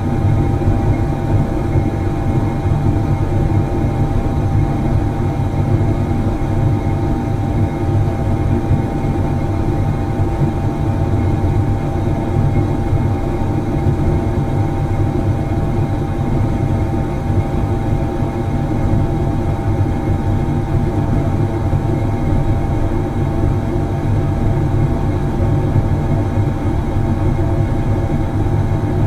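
Factory machinery running in a steady drone: a constant low rumble with a few steady tones above it that hold unchanged throughout.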